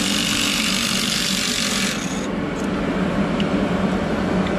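An engine running steadily with a low hum. Over it is a loud, even hiss that cuts off abruptly about two seconds in.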